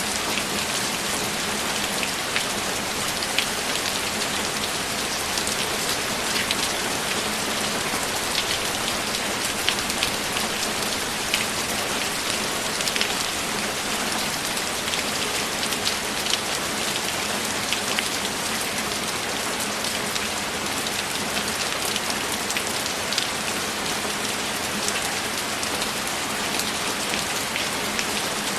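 Steady, heavy rain falling, with a dense hiss and scattered sharper drop strikes throughout.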